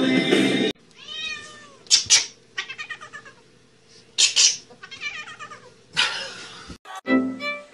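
A cat meowing and yowling over and over in drawn-out, wavering calls, broken by a few short, loud, harsh bursts.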